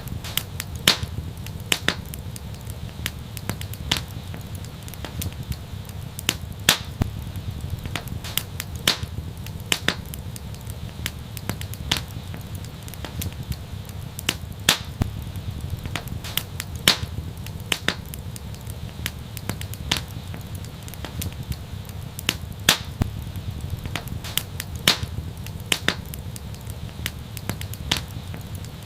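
Wood fire in an outdoor fireplace crackling, with irregular sharp pops, a few of them loud, over a steady low rumble of burning.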